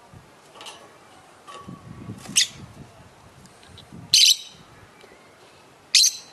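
Lovebirds calling: three loud, short, shrill chirps about two seconds apart, with fainter calls before them.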